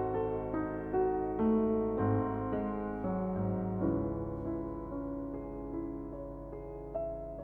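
Slow, gentle piano music, single notes and chords sounding one after another and ringing on.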